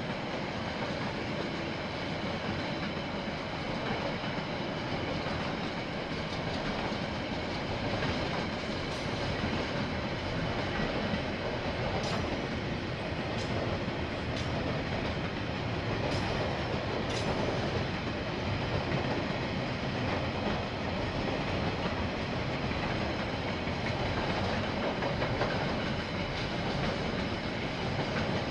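A KiwiRail train's wagons rolling past at steady speed, wheels clattering over the rail joints.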